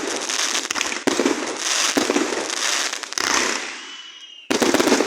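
Fireworks going off: repeated volleys of sharp bangs, each trailing off into crackling, with new volleys about every second, a brief whistle about three seconds in, and a loud fresh volley near the end.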